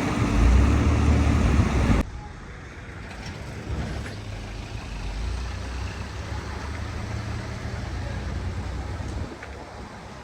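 Road vehicle running, with a low engine rumble and road noise. It is loud for about two seconds, then cuts off abruptly to a quieter, steady low rumble that fades a little near the end.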